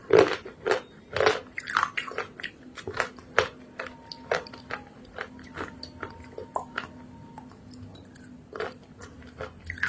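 A person biting into and chewing crunchy dry clay. A loud bite comes right at the start, followed by many sharp crunches that thin out and grow quieter toward the end.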